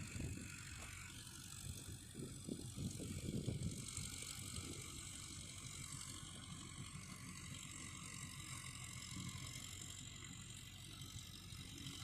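Farm tractor engine running steadily, with irregular mechanical clicking and rattling over it in the first few seconds.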